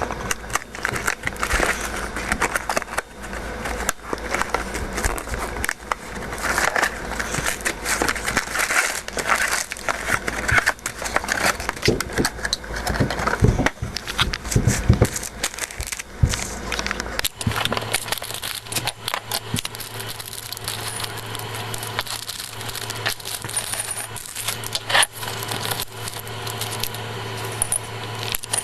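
Small plastic LEGO pieces clattering and clicking as they are handled and sorted, a dense run of light, irregular clicks. A steady low hum comes in partway through.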